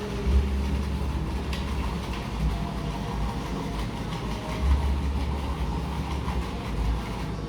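Café background noise: a steady low machine hum with two swells of deep rumble, one just after the start and one about five seconds in, and a few faint clicks.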